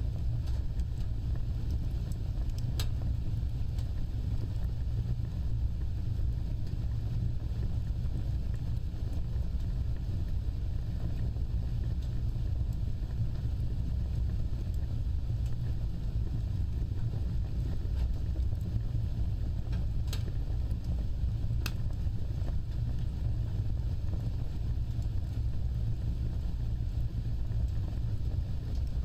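Wood fire burning with a steady low roar and a few sharp crackles, one about three seconds in and two close together later on.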